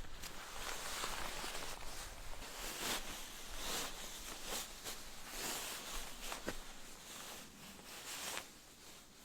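Footsteps crunching in snow, about one step a second, with a steady hiss behind them; the steps stop near the end.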